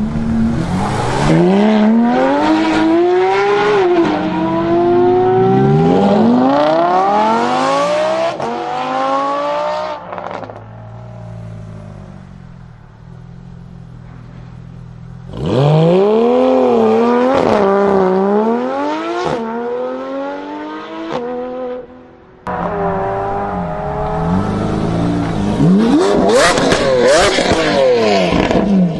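High-performance car engine accelerating hard through the gears: the engine note climbs steeply and drops back at each upshift, over and over. The runs come in three bursts, with a quieter steady stretch from about ten to fifteen seconds in and an abrupt cut just after twenty-two seconds.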